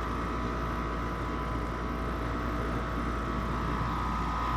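Goodman 13 SEER air-conditioner condensing unit running: a steady hum and rumble from the compressor and condenser fan, with a constant high-pitched tone over it.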